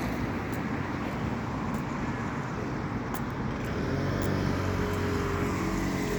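Road traffic on a wet road: a steady hiss of tyres, with a vehicle's engine hum building in from about two-thirds of the way through.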